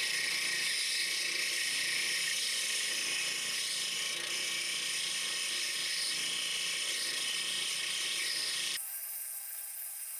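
A small electric power tool running with a steady high-pitched whir, cut off suddenly about nine seconds in and replaced by a quieter, thinner sound.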